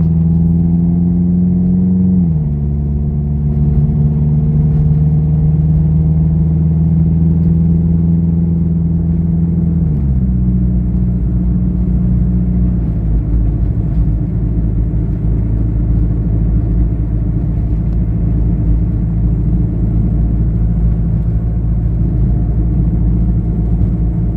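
Car engine running steadily under way, its pitch dropping sharply twice, about 2 and 10 seconds in.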